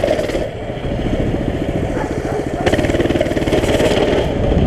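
Mini bike's small engine running as it is ridden, easing off about half a second in and picking up again, pulling hardest for a second or so past the middle.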